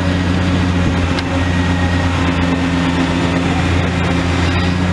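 A demolition excavator's diesel engine running at a steady speed, a constant low drone with no revving and no impacts.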